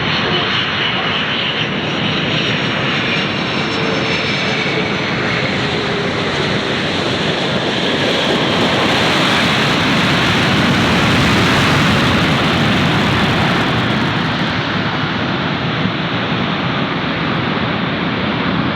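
An airliner's jet engines as it passes: a loud, steady rumble that swells to its loudest about two-thirds of the way through and then eases off, with a faint falling whine in the first few seconds.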